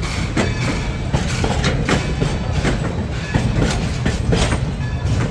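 Steel passenger coaches rolling past close by, their wheels clacking irregularly over rail joints over a steady low rumble.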